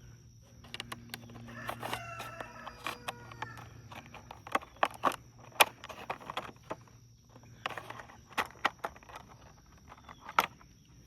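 A rooster crowing once, a drawn-out call lasting about two seconds, over a steady low hum. Sharp clicks and taps run through it, from small plastic parts being handled; the loudest come about halfway through and near the end.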